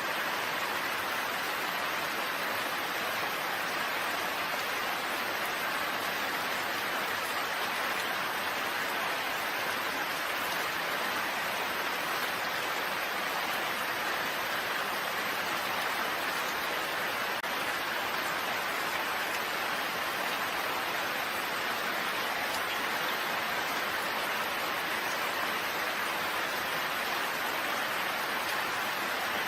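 Steady rain falling: an even, unbroken hiss with no breaks or changes.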